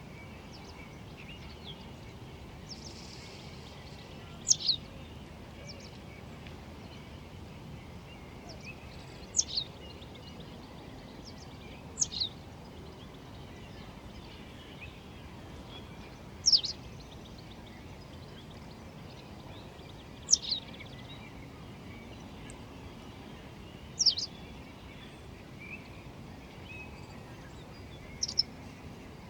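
A bird repeatedly giving a short, high call that sweeps downward in pitch, once every four seconds or so, sometimes as a quick double note. Under it is a steady low background hush.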